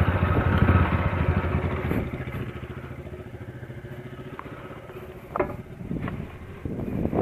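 Motorcycle engine running at low speed, loudest for the first two seconds and then easing down to a quieter, steady idle. Two brief sharper sounds come near the end.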